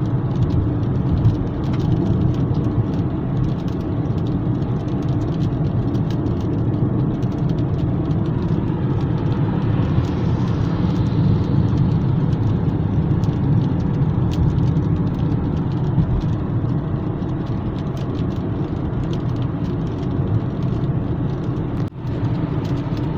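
Steady road noise of a car driving on a highway: a constant low rumble of tyres and engine heard from inside the moving car.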